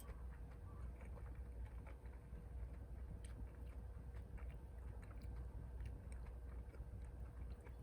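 Wood fire crackling with irregular sharp pops and ticks over a steady low rumble.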